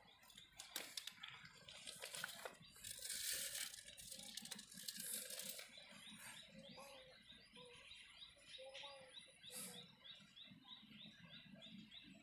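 Faint birdsong: a high chirp repeated evenly about three times a second, with scattered lower chirps, and a couple of brief rustles in the first half.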